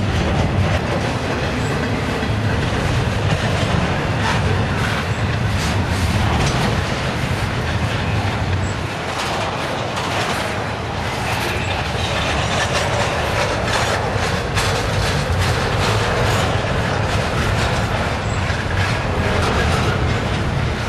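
Double-stack intermodal freight train's well cars rolling past: steel wheels on rail in a steady low rumble, with many quick clicks and clatters.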